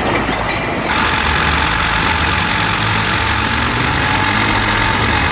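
Diesel engines of heavy construction machines running steadily under load. About a second in, a louder hiss and a higher steady whine join the engine note.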